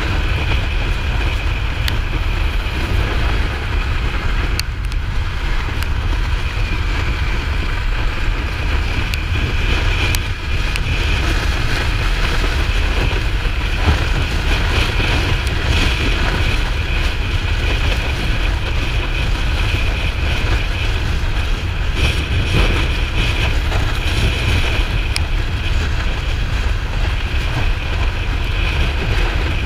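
Kawasaki Ninja 400 motorcycle under way: steady wind rush over the helmet-mounted microphone with the parallel-twin engine and road noise running beneath.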